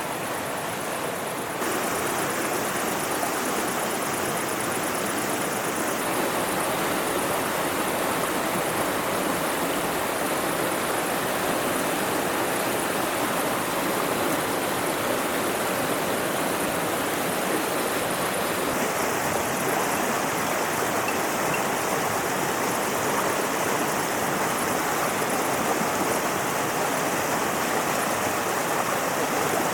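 Mountain river flowing: a steady rush of running water, stepping up slightly in level about two seconds in.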